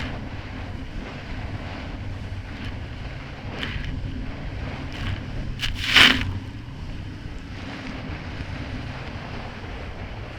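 Kawasaki Ultra 300X jet ski's supercharged four-cylinder engine running steadily under wind noise on the microphone, with the hull slapping through choppy water. A few splashes of spray; the loudest is a sharp slap about six seconds in.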